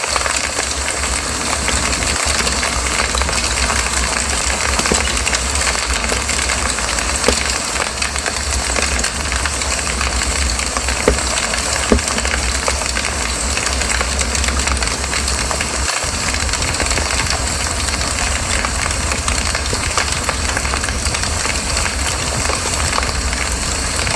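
Campfire burning: a steady hiss with a few sharp crackles, over a steady low rumble.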